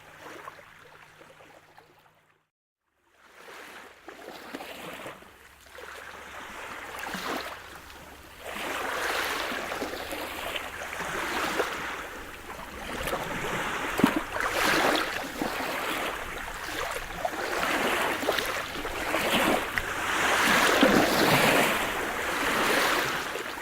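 Sea surf: waves washing in and draining back, swelling and ebbing every second or two. It cuts out briefly about two seconds in, then returns and grows louder.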